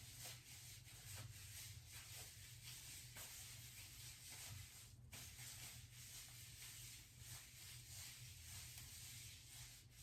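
Near silence: a steady hiss and low hum, with faint, soft, irregular rubbing of hands working hair dye through hair.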